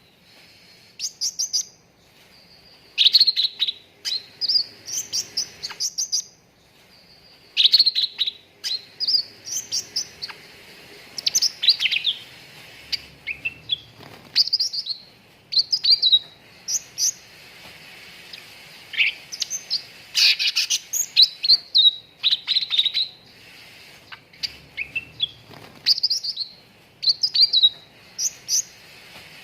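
Cucak ranting, a small bulbul, singing in quick bursts of high, sharp chirps and whistled notes. The phrases last about a second each, with short pauses between them, repeated throughout.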